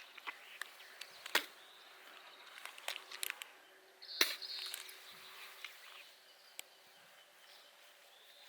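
A few sharp, separate clicks and knocks, like objects being handled and set down, over a faint steady hum and outdoor background.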